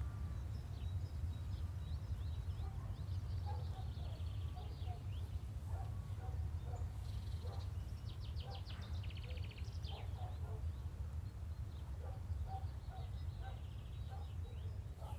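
Birds chirping and trilling in short repeated phrases over a steady low outdoor rumble.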